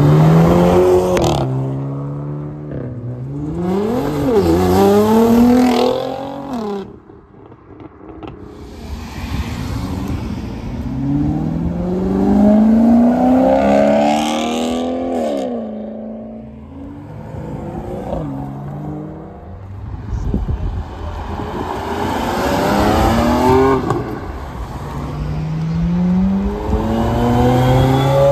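Several cars accelerate away one after another, each engine note rising in pitch, dropping at a gearshift and climbing again. Among them are a Maserati GranTurismo's V8 around the middle and a Ferrari F355's V8 near the end, with a brief lull between cars about a quarter of the way in.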